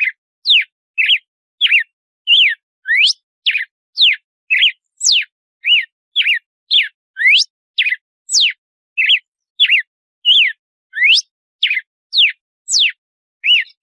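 Red-cowled cardinal (galo-de-campina) singing a measured 'compasso' song: a steady run of short whistled notes, about two a second, each a quick slide up or down in pitch.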